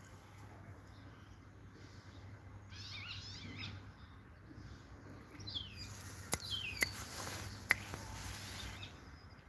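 European goldfinch singing in short twittering phrases, with a dense flurry of notes about three seconds in and more phrases from the middle on. Three sharp clicks in the second half are the loudest sounds, over a faint low hum.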